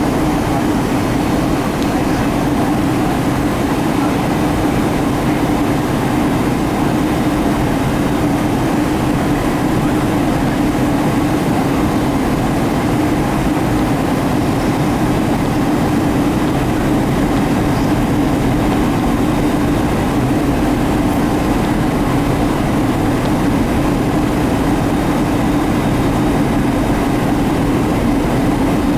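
Steady drone of a Boeing 757-200's engines and airflow, unchanging in level throughout, with a low hum standing out.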